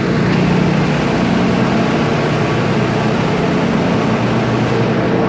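School bus engine running with a steady low hum.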